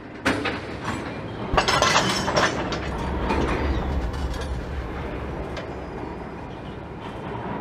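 A train running by: wheels clattering over rail joints with sharp clicks over a low rumble. It starts suddenly, is loudest in the middle, then slowly fades away.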